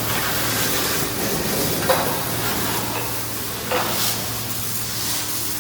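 A steady hiss with two brief clicks, about two seconds and about three and a half seconds in.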